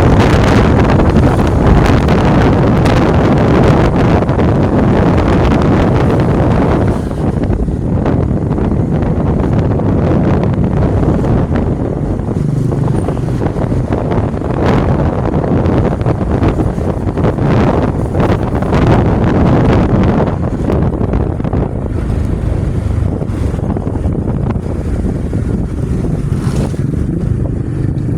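Riding on a motorcycle at speed: heavy wind buffeting on the microphone over the engine and road noise, a little louder for the first seven seconds or so.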